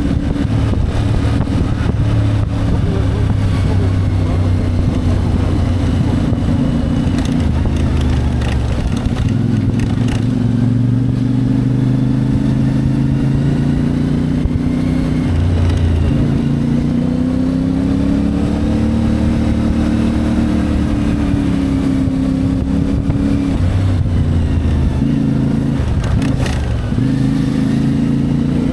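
CFMoto 450MT's parallel-twin engine running under way, its pitch rising and falling with the throttle, most clearly between about 12 and 22 seconds in.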